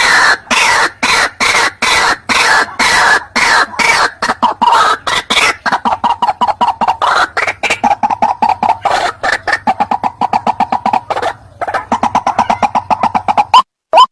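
White-breasted waterhen calling: a fast, harsh, repeated croaking of many short notes a second. Near the end it breaks into separate rising whooping notes, about two or three a second.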